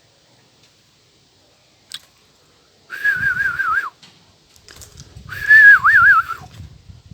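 Two warbling whistles, each about a second long, that wobble quickly around one high pitch and dip at the end. A sharp click comes about two seconds in.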